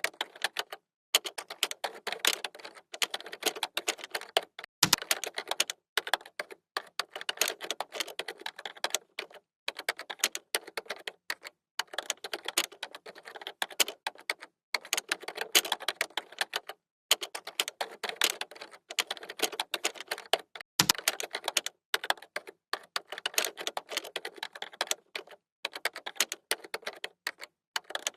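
Fast typing on a computer keyboard: rapid runs of key clicks broken by brief pauses every second or two. Twice, a heavier stroke lands with a low thud.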